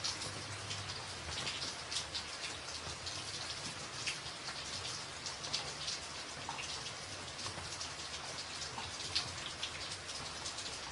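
Rain falling on a tin roof: a steady hiss with many sharp drop hits pinging on the metal.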